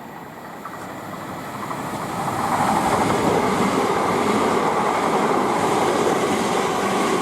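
A pair of Class 387 electric multiple units running along the line. The sound grows louder over the first two or three seconds, then holds steady as the train passes close by.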